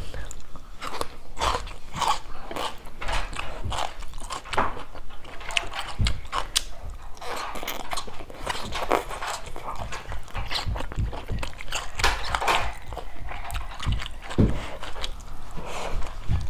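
Close-miked chewing of stir-fried green beans and rice: a continuous run of crisp bites and wet crackly mouth sounds.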